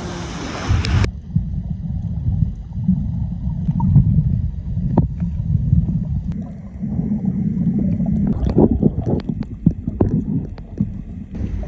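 Motorboat underway: a loud, uneven low rumble, with scattered sharp knocks and a brief hiss at the very start.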